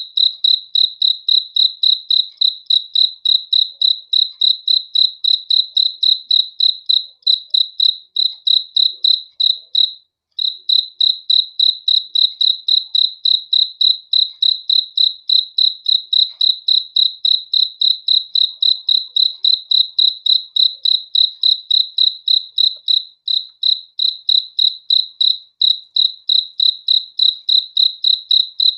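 Cricket chirping in a steady, even rhythm of high-pitched chirps, about three a second, with a brief break about ten seconds in.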